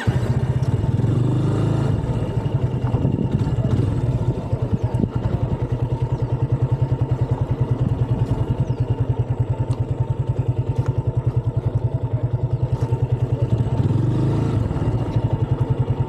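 Motorcycle engine running at low revs with an even, rapid, rhythmic exhaust pulse, swelling slightly near the start and again near the end.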